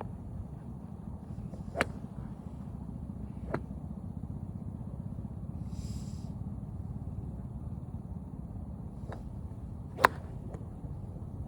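Golf clubs striking balls: a handful of sharp cracks at uneven intervals, the loudest near the end, over a steady low rumble.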